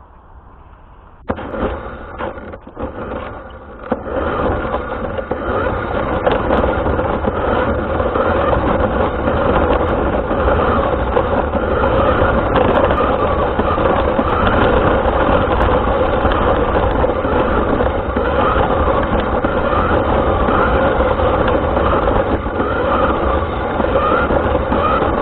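Radio-controlled car setting off and driving, heard from a camera mounted on it: the noise starts suddenly about a second in, is uneven for a few seconds, then settles into a loud, steady run of motor and rolling noise with a held tone.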